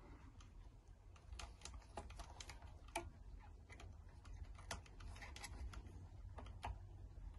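Faint, irregular small plastic clicks and taps from RC car shock absorber ends being pressed by hand onto ball-connector studs, over a low steady hum.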